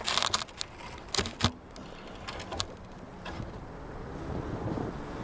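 Handling noise from a camera being wedged into place: several sharp clicks and knocks in the first second and a half and one more a little later, then faint steady background noise.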